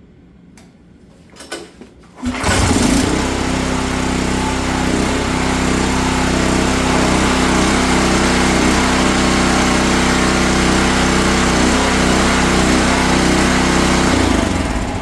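Gas engine of a 4400 psi DeWalt pressure washer starting up about two seconds in and running steadily with its pump, on a test run after the pump seals and unloader valve were rebuilt; it winds down near the end.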